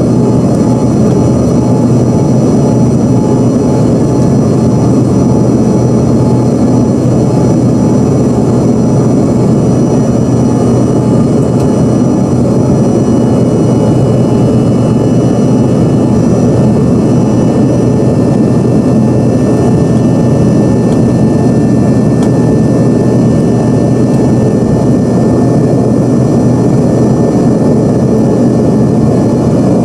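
Steady engine and airflow noise of an Embraer ERJ-145's rear-mounted Rolls-Royce AE3007 turbofans, heard from inside the passenger cabin. It is an even rushing drone with faint steady high-pitched whine tones over it.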